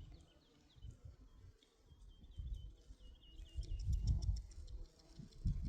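A small bird calling: a run of short, quick, high chirps at a steady pitch, ending about three seconds in, over uneven low rumbling.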